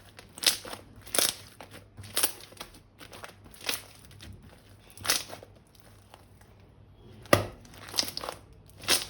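Crinkling, crunching handling sounds of slime-making materials, in short separate bursts about once a second. One sharper, louder crack comes about seven seconds in.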